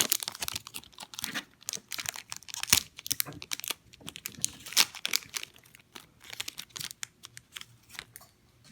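Foil wrapper of a Pokémon booster pack crinkling and tearing as it is opened by hand. The crackling is dense for about five seconds, then thins to scattered clicks.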